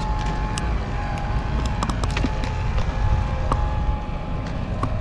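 Wind rumbling on the microphone, with a faint steady high-pitched whine and a few sharp clicks.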